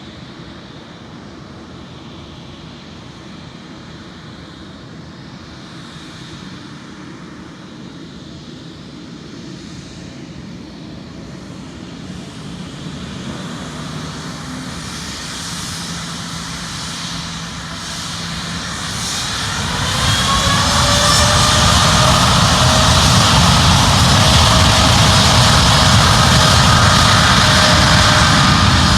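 Airliner engines at takeoff power as the plane accelerates down the runway. A low rumble swells slowly through the first two-thirds. About twenty seconds in it becomes loud, with a whine at several pitches that rises briefly and then holds.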